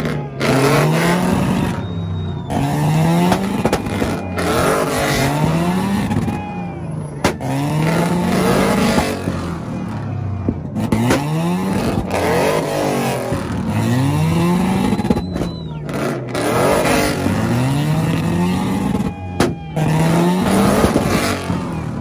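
Modified car engine revved over and over, its pitch climbing and falling back about once a second, with occasional sharp pops.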